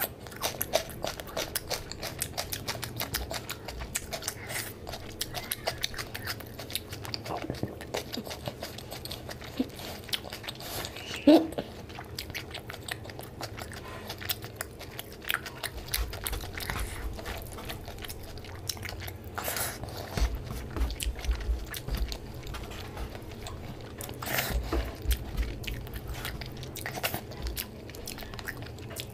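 Close-up eating sounds: a man chewing mouthfuls of rice and curry eaten by hand, with many small wet mouth clicks and smacks and one sharper click about eleven seconds in. Soft low bumps come now and then in the second half.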